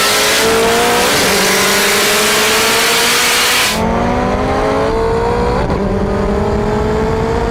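Turbocharged Honda K20A2 four-cylinder engine under hard acceleration. Its pitch climbs steadily and drops back at gear shifts about a second in, near the middle and again later, climbing after each.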